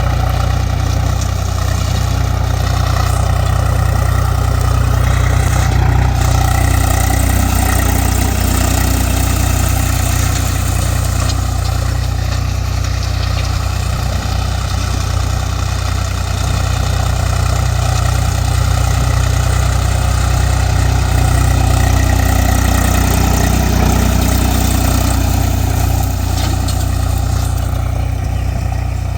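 Swaraj 735 FE tractor's diesel engine running steadily with a low, pulsing note, easing slightly near the end.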